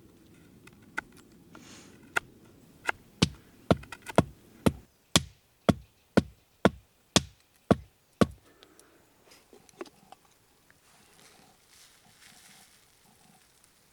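A run of about a dozen sharp, heavy knocks, roughly two a second, that stop suddenly a little past the middle.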